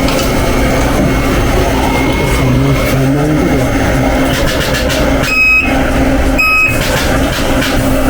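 Spot welder firing twice about a second apart, each shot a brief high whine, over steady workshop noise.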